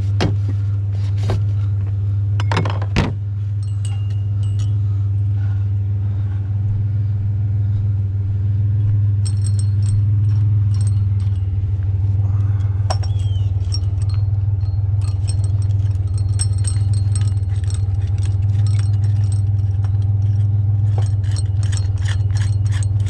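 Vehicle engine idling with a steady low hum. Light metallic clinking and jingling starts about nine seconds in and grows busier toward the end, with a couple of knocks early on.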